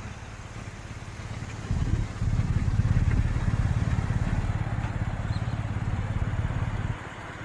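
A motor vehicle engine running close by with a low, rapidly pulsing rumble. It grows louder about two seconds in and eases off again near the end.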